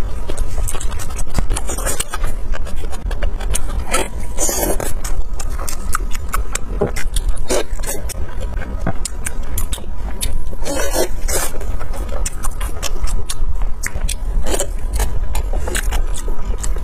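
Close-miked chewing and biting of fried skewered food: many short, irregular wet mouth clicks and smacks over a steady low rumble.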